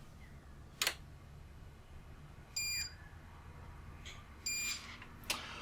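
Uninterruptible power supply switched on from its power button: a relay click, then two short high beeps about two seconds apart, and another click near the end.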